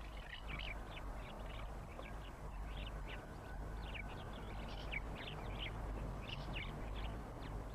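House martins twittering: many short, high chirps in quick succession, over a steady hiss and low hum.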